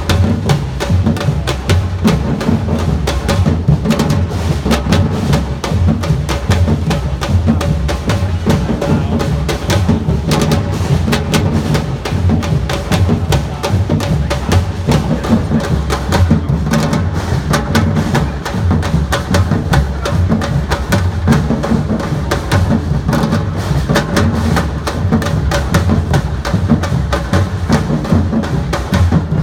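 Samba-reggae drum band playing: deep bass drums beat a repeating pattern under a dense, fast run of sharp drum strikes, loud and steady throughout.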